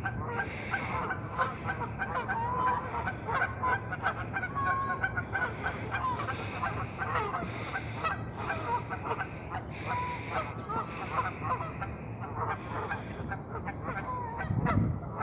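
A large flock of birds calling all at once, a dense, unbroken chorus of short overlapping calls.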